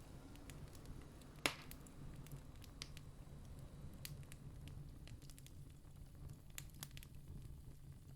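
Campfire crackling: scattered small pops and snaps, with one sharp louder pop about a second and a half in, over a faint steady low rumble.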